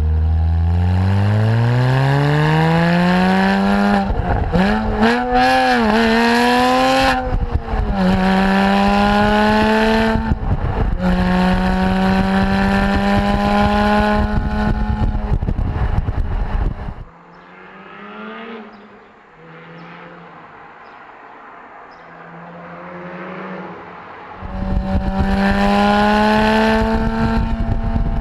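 Porsche Boxster S flat-six through a loud Capristo aftermarket exhaust, revving hard. The pitch climbs, wavers and is held high for several seconds, drops away to a quiet low stretch, then rises again to a held high rev near the end.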